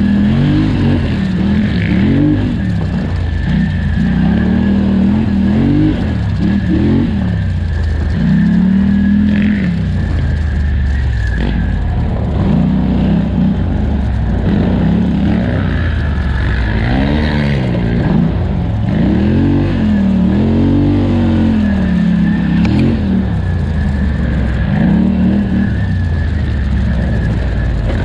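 2018 Polaris Scrambler 1000 XP's twin-cylinder engine racing at full throttle over rough ground, repeatedly revving up and dropping back as the throttle is worked on and off.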